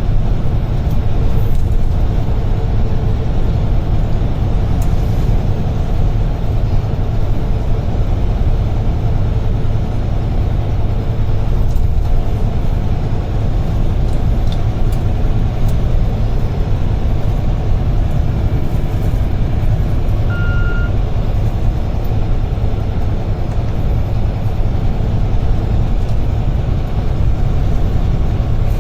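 UD Trucks Quon heavy truck running steadily at speed, heard inside the cab: a continuous low engine and road rumble. A single short beep sounds about two-thirds of the way through.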